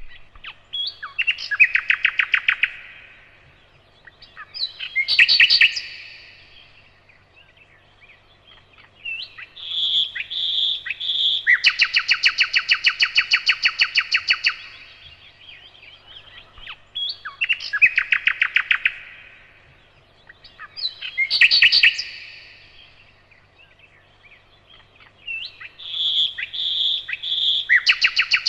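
Nightingale singing: loud phrases of one to a few seconds with pauses between them, mixing a few repeated whistled notes with long rapid trills. The longest is a trill of about three seconds near the middle.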